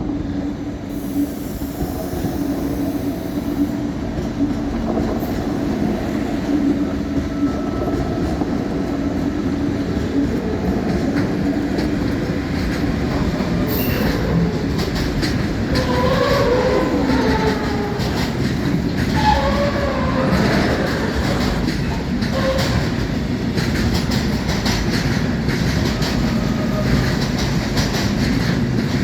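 Train passing through a station: a steady rolling rumble with wheels clicking over rail joints, and wavering wheel squeal in the middle stretch.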